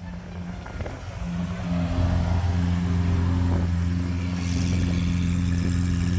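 A car engine running steadily at idle, with a low, even hum that gets louder about two seconds in and then holds.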